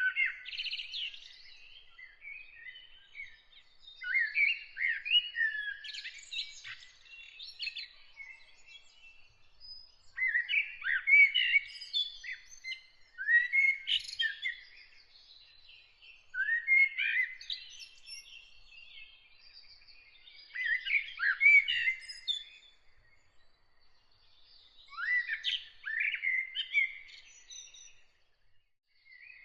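A songbird singing in short, varied phrases of rapid whistled sweeps and chirps, about seven phrases with brief pauses between them.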